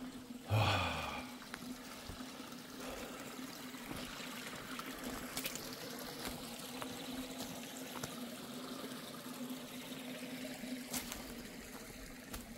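Water trickling and pouring steadily, over a low steady hum, with one short loud sound about half a second in.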